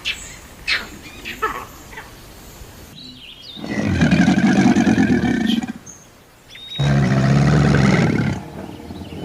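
A few short, high squeaky animal calls, then two long, loud roars of about two seconds each from a large wild animal.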